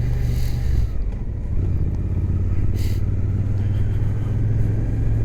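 Suzuki GSX-8S parallel-twin engine running steadily under way, heard through a microphone inside the rider's helmet, with wind noise; the engine note briefly drops about a second in, then picks up again.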